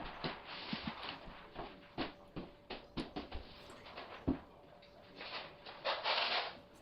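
Scattered light knocks and taps with a short rustle near the end, from wax-paper underlayment being laid out and handled on the subfloor. A faint steady hum comes in about halfway.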